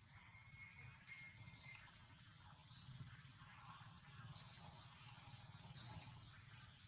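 Faint, high-pitched animal chirps: about four short squeaks, each rising and falling, a second or more apart.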